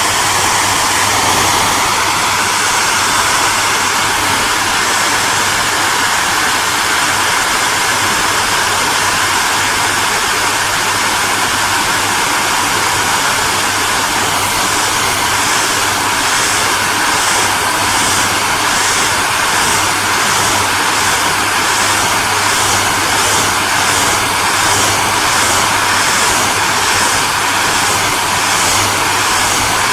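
Hair dryer running steadily: an even blowing hiss over a low motor hum. From about halfway, a faint pulsing comes into the high hiss, about twice a second.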